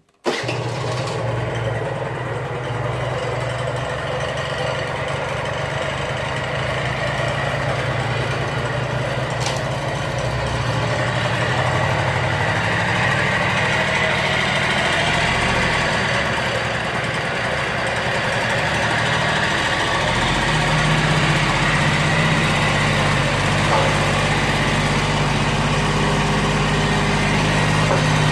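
Honda Tact AF24 scooter's small two-stroke engine running steadily, freshly rebuilt with a new piston and a tuned carburettor; about 20 seconds in its pitch and loudness rise a little.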